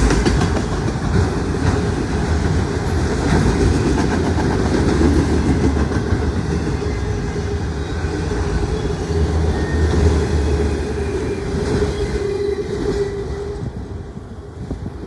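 Auto rack freight train rolling past, its wheels clicking over the rail joints in a steady rumble. The sound drops away near the end.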